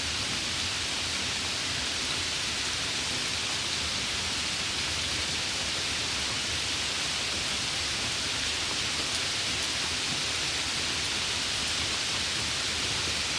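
Steady rain: an even, unbroken hiss with no distinct drops or thunder.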